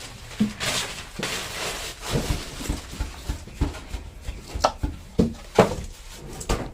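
A series of irregular knocks and taps, about a dozen in all, with a brief rustling hiss about half a second in.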